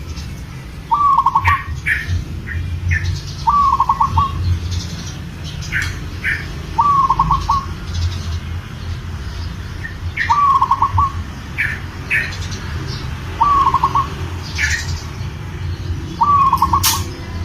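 Male zebra dove (perkutut) cooing: six short phrases of rapid stuttering notes, about one every three seconds, the call of a male in breeding condition for a female. Brief higher chirps from other birds fall between the phrases, over a low steady background rumble.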